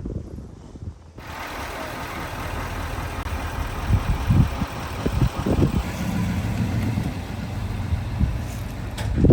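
A motor vehicle's engine running steadily, cutting in abruptly about a second in, with several dull thumps over it, the loudest near the end.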